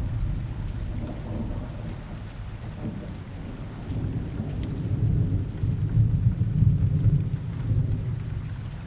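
Steady rain with low rumbling thunder, the rumble swelling from about four seconds in.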